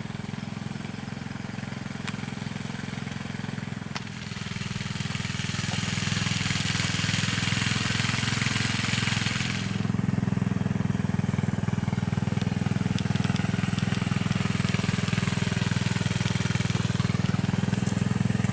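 An engine running steadily with a fast even firing pulse. A hiss builds over the engine from about four seconds in and cuts off sharply about ten seconds in.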